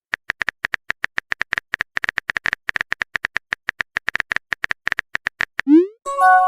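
Rapid, even typing clicks, about eight a second, the sound effect of a message being typed. Near the end they give way to a short rising swoop and then a chime, like a message being sent and a notification arriving.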